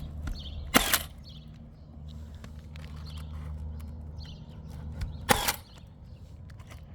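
Milwaukee power nailer firing twice, about four and a half seconds apart, each shot a sharp double crack as it drives a nail into asphalt shingles.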